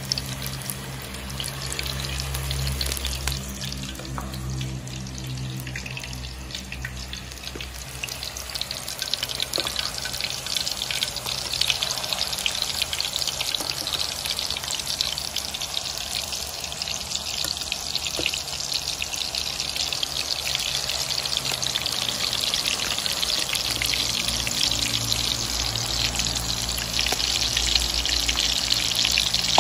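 Seasoned beef frying in hot oil in a pan: a steady crackling sizzle that grows louder from about ten seconds in.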